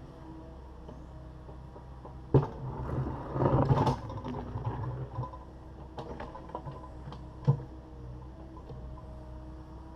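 Takeuchi TB260 excavator's diesel engine running steadily while it breaks out a concrete floor. There is a sharp knock about two seconds in, then a couple of seconds of scraping and crunching concrete, and another knock later on.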